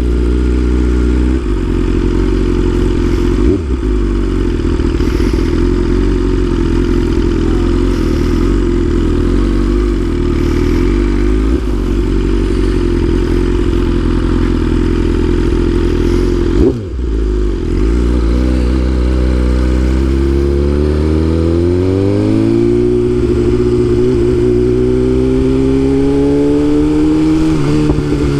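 BMW S1000RR inline-four engine running under way at steady revs, with a brief drop in revs about two-thirds of the way through, then revs climbing smoothly and holding higher near the end as the bike accelerates without being fully opened up.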